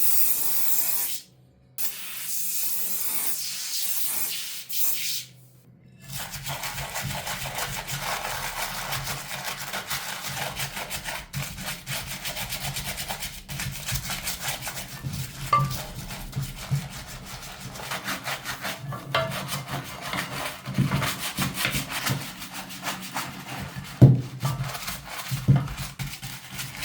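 Two spells of hissing spray in the first five seconds, then a long stretch of rapid, steady rubbing strokes, like a part being sanded or scraped by hand.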